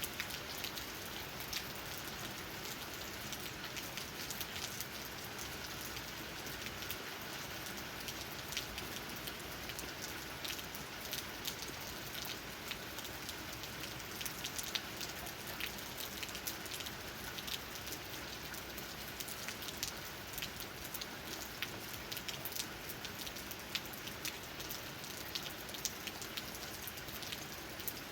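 Steady rain, with many individual drops tapping on leaves as sharp close ticks over an even hiss.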